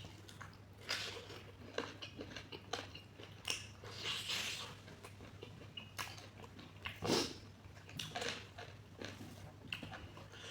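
Close-up eating sounds: a person biting and chewing food, with irregular wet mouth clicks and smacks and a louder bite about seven seconds in, over a steady low hum.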